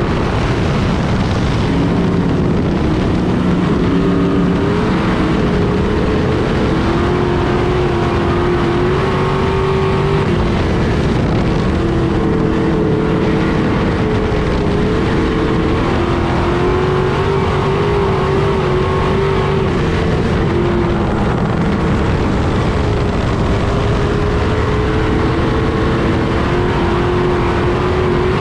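Street stock race car engines running hard at high revs around the oval, with a steady drone whose pitch wavers slightly up and down as the cars lift and get back on the throttle.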